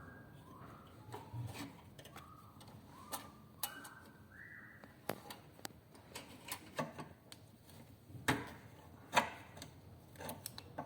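Irregular clicks and taps of small chainsaw parts being handled and fitted, around the choke rod, with a few short high squeaks in the first few seconds.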